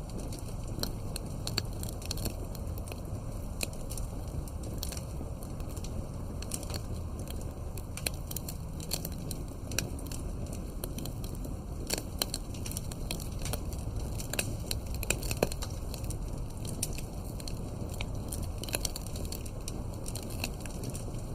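Campfire of burning wood crackling, with frequent irregular sharp pops and snaps over a continuous low rumble.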